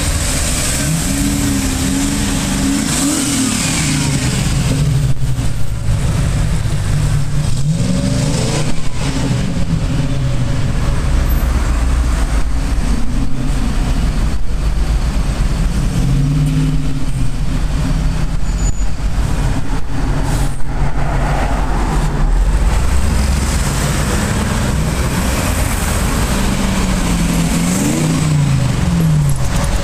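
TVR Chimaera's V8 engine revving again and again, its pitch rising and falling, over a steady low traffic rumble.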